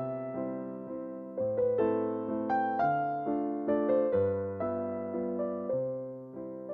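Background music: a gentle piano melody over held chords, notes striking and fading in a slow, even rhythm.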